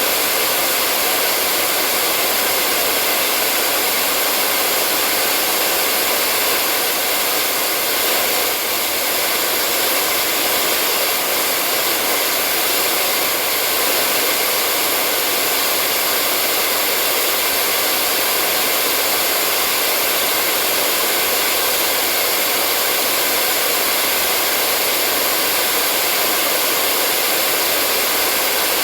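Hair dryer running steadily, a constant even rush of blown air with a faint steady motor hum, unchanging in level.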